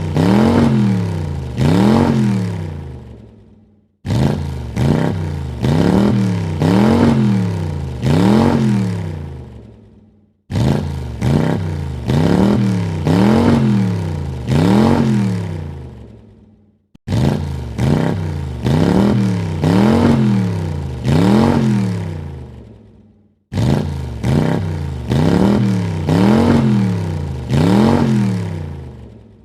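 Car engine revved in quick throttle blips, each a rise and fall in pitch about a second and a half long, three or four to a run. Each run fades away and breaks off in a short silence before the next begins, about every six and a half seconds.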